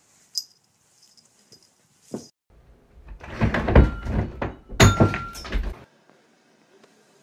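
A run of loud thuds and knocks with clatter, lasting about three seconds, as something crashes against a wall shelf.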